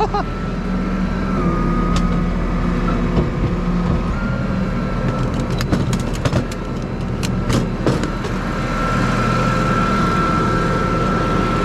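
Tow truck engine running steadily, with a few sharp clicks or rattles between about five and eight seconds in.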